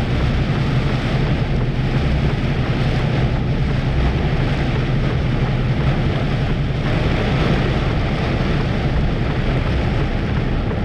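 Heavy rain and tyre spray rushing steadily around a moving lorry's cab, over the low drone of its diesel engine. The hiss grows a little louder about seven seconds in.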